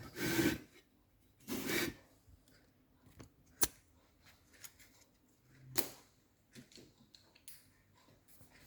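Small handling noises: two short rustles near the start, then a sharp click a little after three seconds and a few fainter clicks and scrapes.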